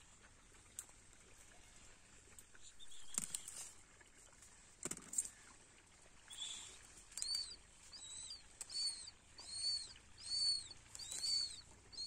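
A bird calling over and over from about halfway through: a short high arched chirp repeated roughly every second, about seven times. Earlier, a couple of sharp knocks.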